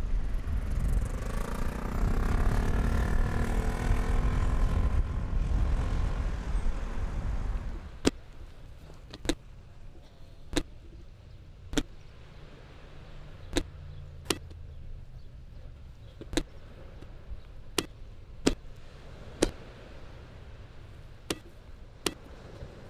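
A motor vehicle passes with a low rumble and gliding engine pitch, cutting off abruptly about eight seconds in. After that come sharp, separate knocks at irregular intervals of about a second.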